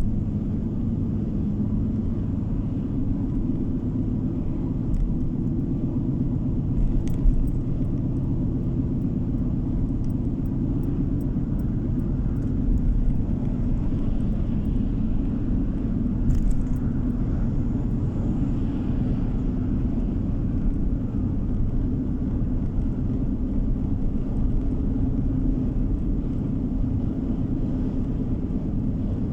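Car interior road noise while driving: a steady low rumble of tyres and engine, with a few faint clicks or rattles now and then.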